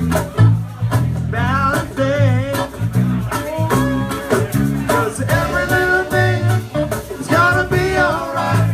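Live band music: a melodic lead line with wavering, bending pitch over steady bass notes and drum hits.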